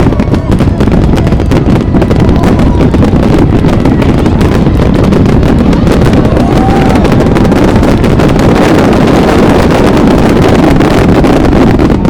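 Dense fireworks barrage of a finale, aerial shells bursting and crackling so fast that the reports merge into one continuous loud rumble with constant sharp cracks.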